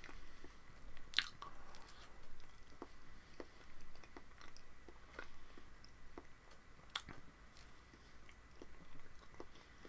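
Close-up mouth sounds of someone chewing a soft banana: wet, irregular chewing and lip smacks, with two sharper clicks about a second in and near seven seconds.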